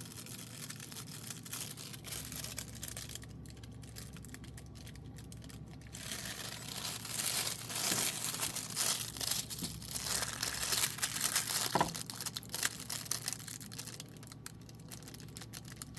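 Crinkling and crackling of plastic film as a diamond painting canvas and its plastic cover sheet are handled, busier and louder around the middle.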